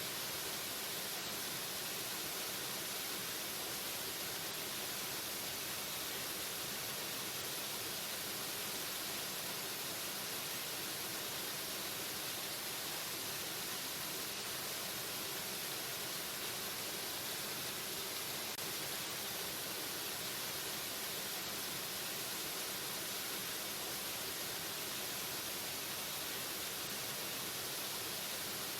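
Waterfall: a steady, unbroken rush of falling water, a hiss weighted toward the high end with little bass.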